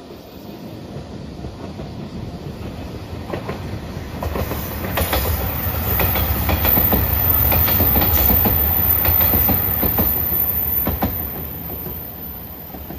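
A JR Shikoku 2700 series diesel limited express train passing close by. Its low engine and running rumble grows, peaks for several seconds, then fades as it moves away. The wheels clack over the rail joints in a quick run of beats while it is nearest.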